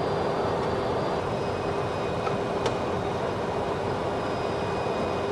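Steady flight-deck noise of a Boeing 737-200 on approach: a constant rush of airflow and engine noise with a steady hum, and a faint click about halfway through.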